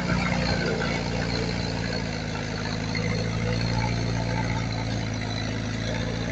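Heavy diesel engine of earthmoving machinery running steadily at an even pitch, with no revving or change in load.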